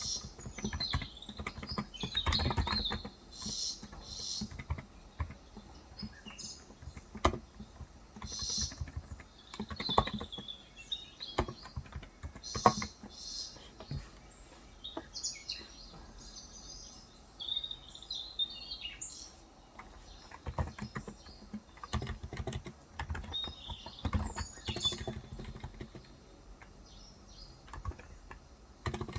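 Typing on a Cox Endeavor electro-capacitive tenkeyless keyboard with 35 g keys, in uneven runs of keystrokes with short pauses, recorded through a phone's microphone. Birds chirp on and off in the background.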